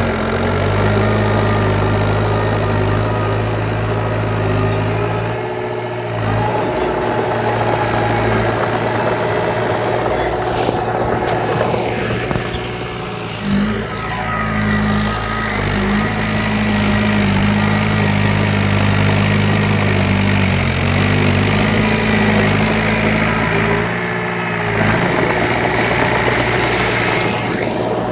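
Diesel engine of a heavy earthmoving machine running steadily, its note shifting briefly a few times as the load changes.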